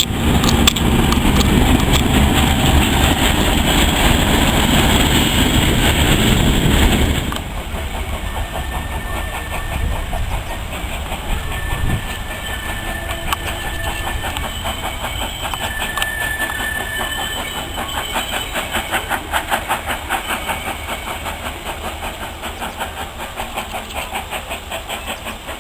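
Train on the move over rails: a loud rushing noise for about seven seconds, then a quieter run of steady, rhythmic clicking and clacking that pulses more plainly near the end.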